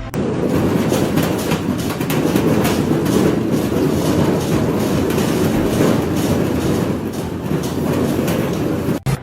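Machinery running with a dense, steady clatter of rapid rattling clicks.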